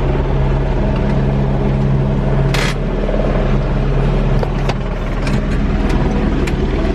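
Tour helicopter's engine and rotor running steadily on the pad before takeoff, a loud even drone with a fast low pulse, heard from inside the cabin. A brief sharp clack about two and a half seconds in.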